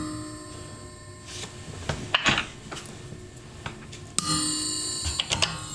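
A vacuum fluorescent display being knocked with a stick, its internal filament wires ringing with a metallic chord of several tones that fades over about a second. One sharp knock about four seconds in sets off the loudest ring, and a few lighter taps follow it.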